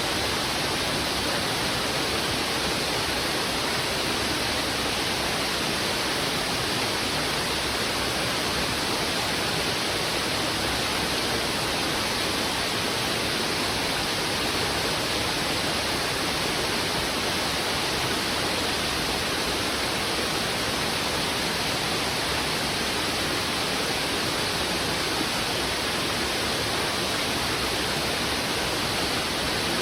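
Heavy river water rushing over rocks: an even, unbroken wash of water noise with no single splashes standing out.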